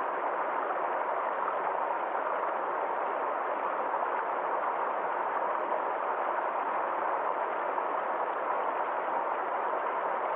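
A forest stream flowing: a steady, even rush of water with no breaks or changes.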